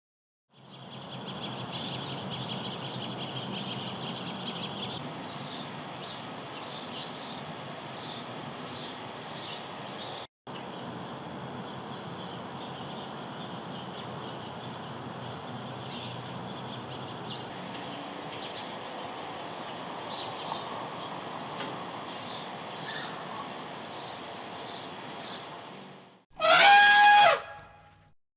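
Outdoor ambience with small birds chirping repeatedly over a steady background hiss. Near the end comes a short, loud, pitched call that slides slightly downward.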